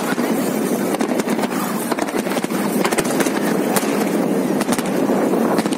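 Fireworks display: a dense, continuous spatter of crackling and sharp pops from bursting crackle shells, with no single big boom standing out.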